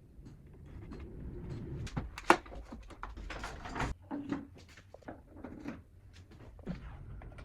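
Parts being handled at a workbench: a run of small clicks, knocks and scrapes, with one sharp knock a little over two seconds in.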